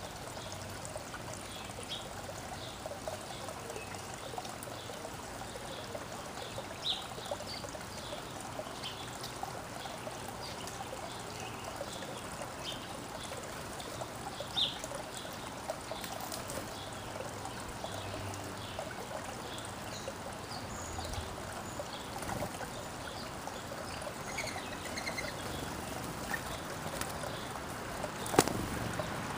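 Steady trickling water, with short bird chirps scattered over it and a single sharp click near the end.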